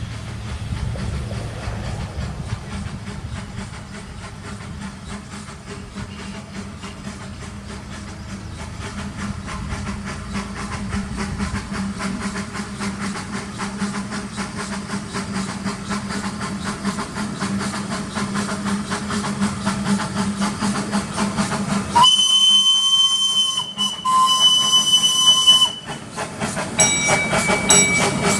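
A 1964 Crown Metal Products 4-4-0 miniature steam locomotive running with a steady hiss, growing louder as it approaches, then sounding two whistle blasts of about a second and a half each near the end. A different, higher pitched tone begins just after the whistle.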